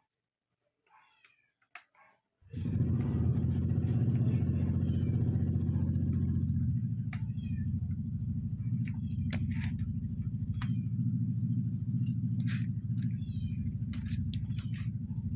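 Electric stand fan motor switched on about two seconds in, then running with a steady low hum that eases slightly a few seconds later.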